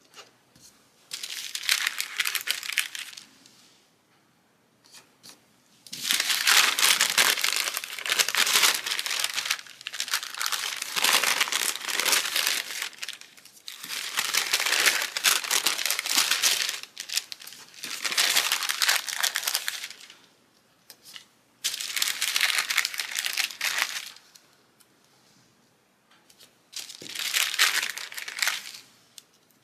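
Crinkling and rustling of a sheet of snowflake stickers being handled and peeled, in repeated bursts of a few seconds with short quiet gaps.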